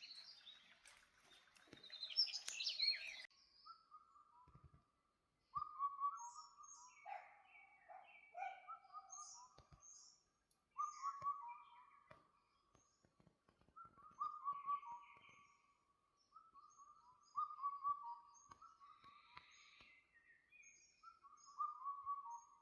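Birds singing: a dense mix of bird calls for the first few seconds, which cuts off abruptly. Then one bird repeats a short, slightly falling phrase of quick notes every few seconds, with scattered high chirps from other birds.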